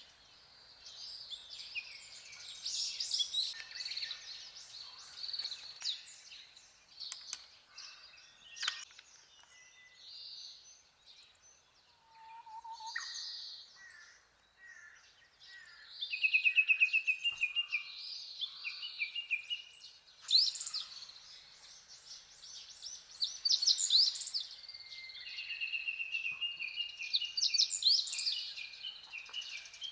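Wild songbirds singing and calling, with phrases overlapping. There is a rapid trill of repeated notes partway through, and again near the end.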